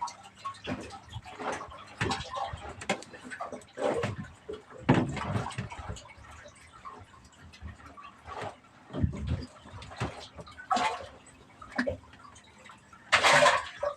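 Irregular splashes and sloshing of water with a few dull knocks, the loudest splash near the end.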